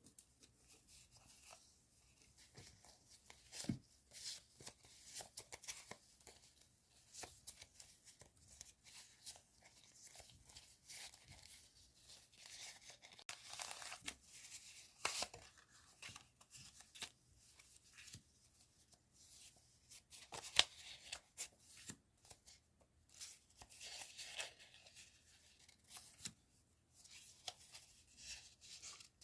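Hands unpacking and handling paper stationery and its packaging: quiet, irregular tearing and rustling of paper, with light taps and clicks.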